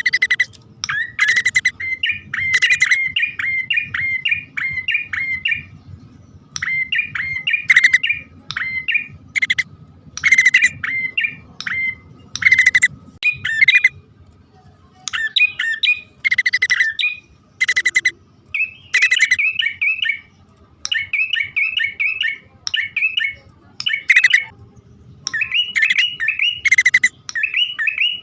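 Prenjak (prinia) lure calls, male and female: loud, rapid bursts of sharp chirping notes in repeated phrases, each a second or two long, with short pauses between. A faint steady hum runs underneath.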